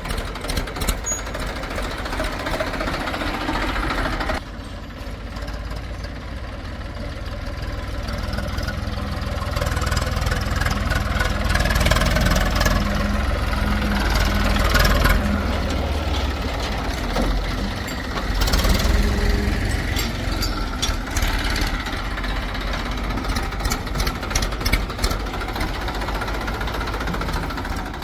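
Diesel engines of heavy farm and earthmoving machinery (a backhoe loader and tractors) running continuously. The sound drops abruptly about four seconds in, then swells louder twice as the machines work.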